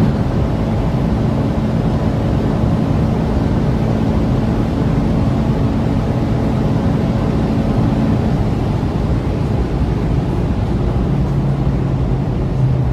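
Volkswagen Golf 7 R's turbocharged 2.0-litre four-cylinder engine running hard at very high speed under heavy wind and road noise. The engine tone holds steady, then settles to a lower pitch near the end.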